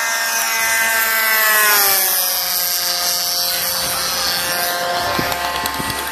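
Small single-cylinder two-stroke gas engine (DLE 20cc) of a flying RC warbird model, buzzing loudly as the plane passes. Its pitch drops between about half a second and two seconds in, then holds steady lower as it flies on.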